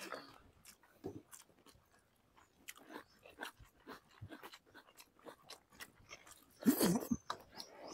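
People eating chicken curry and rice by hand: quiet, scattered clicks and smacks of chewing and of fingers working food on plates, with one louder short mouth sound about seven seconds in.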